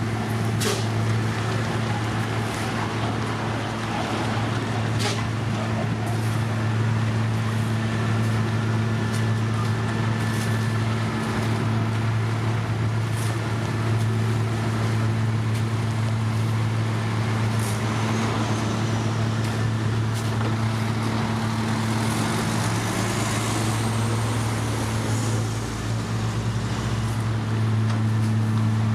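Diesel engine of heavy road-construction machinery running steadily, a strong constant hum with a few sharp knocks and clicks, and a brief rise in pitch a few seconds before the end.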